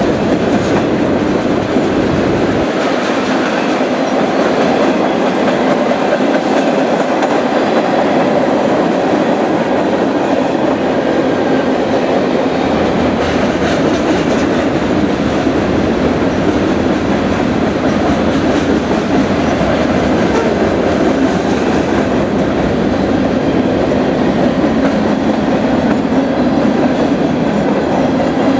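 A train's cars rolling past, their wheels running steadily and loudly over the rails.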